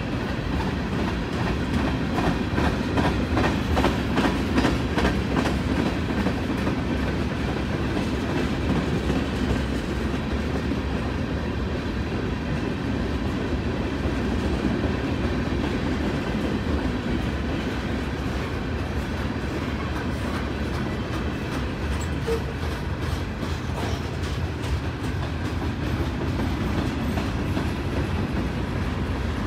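Freight train of covered hopper and tank cars rolling past close by: a steady rumble of steel wheels on rail, with runs of rhythmic clicking as wheel sets pass over rail joints.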